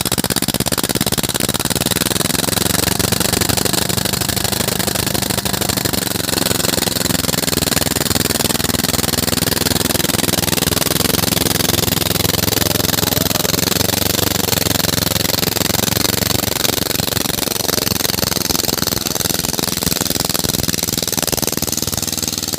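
Escorts tractor's diesel engine running steadily at a constant speed.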